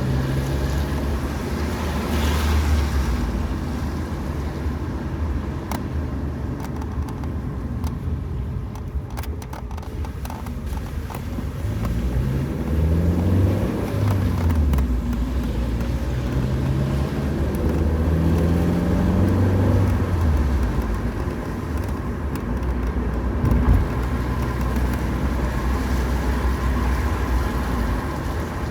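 Car driving on a road: steady engine and tyre noise, with the engine pitch rising and falling several times around the middle.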